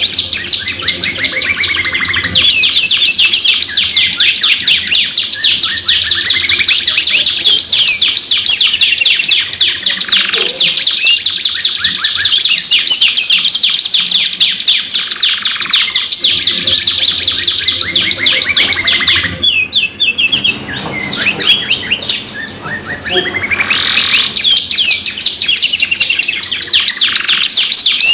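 Domestic canaries singing long, fast rolling trills almost without a break; the song thins out for a few seconds about twenty seconds in, then picks up again.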